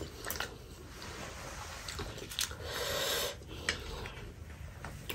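A person chewing a mouthful of spicy noodles and breathing hard, with a long breathy hiss partway through, from the burn of the chili oil. A few sharp clicks come in between.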